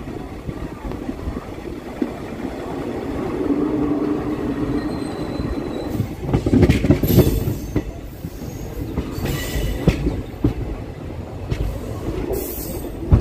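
Passenger train coach running on the rails, with a steady rumble, scattered clacks of the wheels over rail joints and points, and a few brief high wheel squeals. It is loudest about six to seven seconds in.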